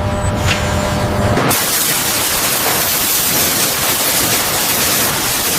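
A low mechanical hum with a few clicks, cut off about a second and a half in by a sudden, loud, steady hiss.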